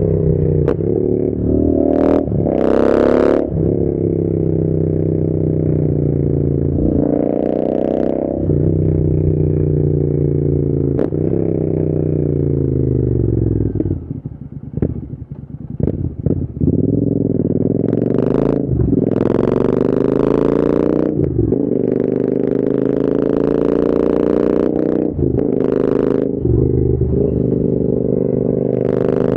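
Royal Enfield Interceptor 650's parallel-twin engine through an aftermarket AEW TE101 exhaust, pulling up through the revs and dropping back again and again as the bike rides and shifts. About fourteen seconds in the throttle closes and the engine goes quieter and uneven on the overrun for a couple of seconds before pulling away again.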